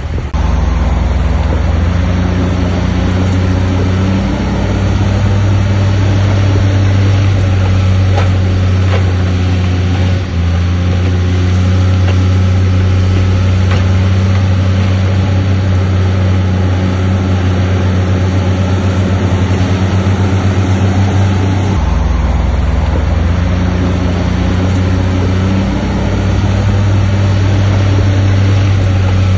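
Heavy diesel engine of an earthmoving machine running loud and steady, its speed shifting up and down a few times.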